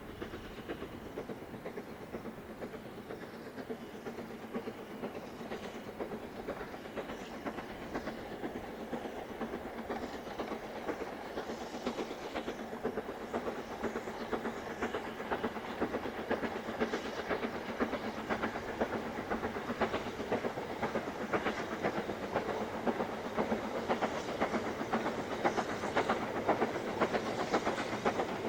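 Steam locomotive working a train, with a fast run of exhaust beats and clattering wheel noise, growing steadily louder.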